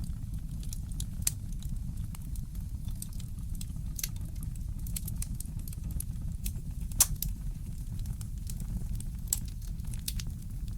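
Wood fire crackling in a fireplace: scattered small pops and snaps over a steady low rumble, with one louder pop about seven seconds in.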